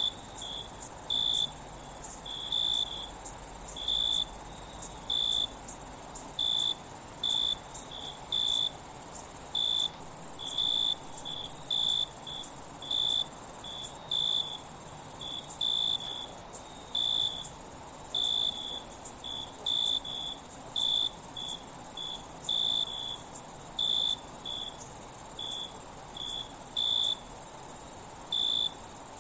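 Night insect chorus: a steady, high-pitched continuous trill from many insects, with a nearer cricket chirping in short pulses, a little more than once a second and unevenly spaced.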